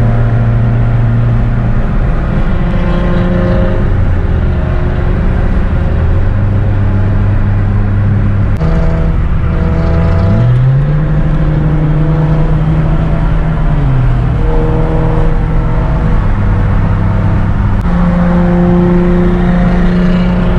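Car engines and exhausts running loudly, held at steady engine speeds with a few shifts in pitch, one rising and falling again midway.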